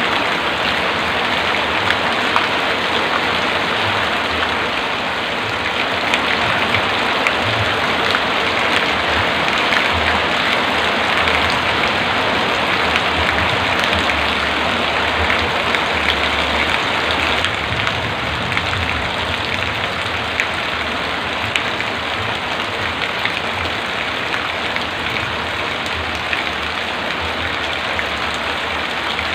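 Heavy rain falling steadily, a dense hiss flecked with countless individual drop ticks; it eases off slightly a little past the middle.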